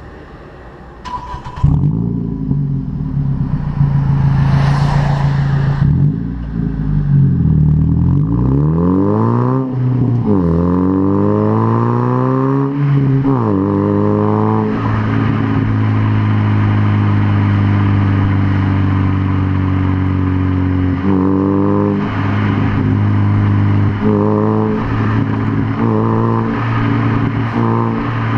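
Nissan Micra 160SR's 1.6-litre four-cylinder through an aftermarket Magnaflow exhaust. It starts up about two seconds in and is revved up and down a few times. It then settles into a steady idle, and near the end it is blipped briefly four times.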